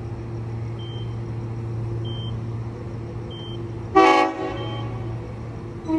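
A train horn gives one short toot about four seconds in, over a steady low hum of the train. Faint short high beeps repeat about every second and a bit before it.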